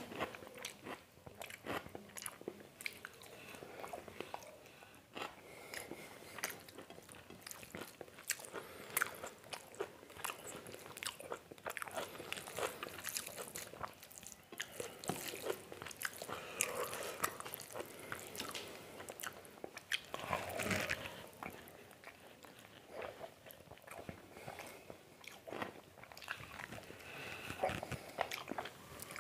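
Close-miked eating of mutton curry and rice by hand: steady chewing with wet smacking mouth sounds and many small irregular clicks, a little louder about two-thirds of the way through.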